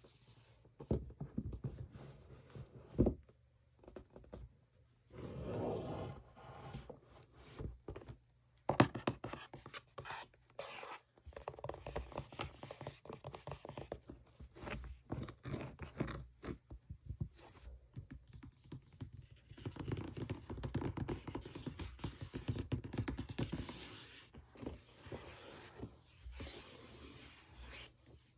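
ASMR triggers on makeup packaging: fingers tapping and scratching on the cases, a busy run of quick taps and scrapes with brief pauses between.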